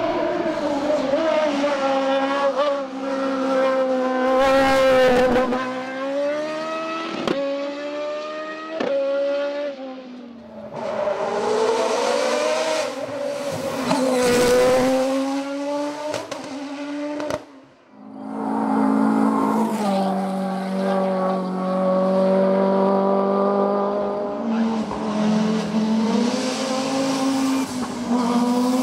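Hillclimb race cars driven flat out, engines at high revs with the pitch climbing and dropping through gear changes, and a few sharp cracks. The sound breaks off twice, about ten and eighteen seconds in, as one car's run gives way to the next.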